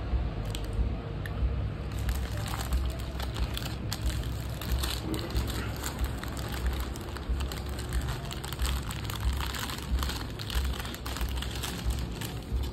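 Close-up chewing of crispy fried chicken, with many short, sharp crunches of the breading over a low rumble.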